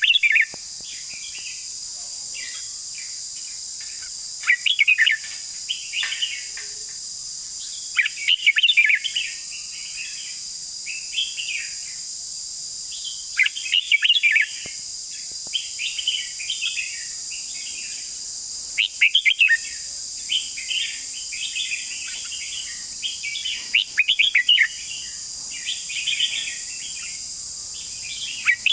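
Red-whiskered bulbul singing: a loud, quick warbling phrase about every five seconds, with softer chattering notes between, over a steady high-pitched hiss.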